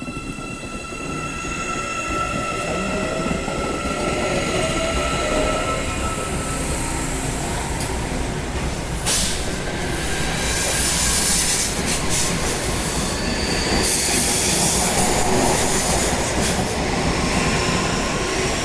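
Electric commuter train running through the station. A motor whine is heard in the first few seconds, then the wheel and rail noise swells, with high-pitched wheel squeal at its loudest about halfway through.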